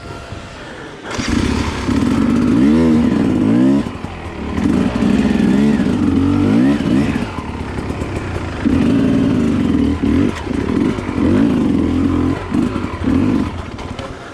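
Dirt bike engine revving up and down as the throttle is opened and closed on a trail, its pitch rising and falling again and again with short drops in between.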